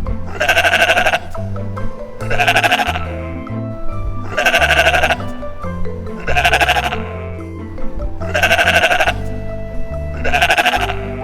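Sheep bleating six times, a short call about every two seconds, over background music.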